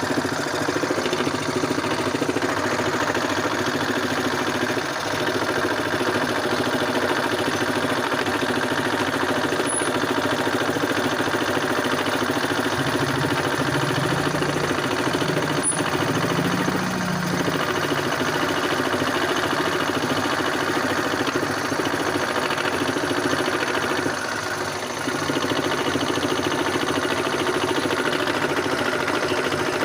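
Homemade scroll saw running steadily as it cuts, its motor and reciprocating blade going without a break.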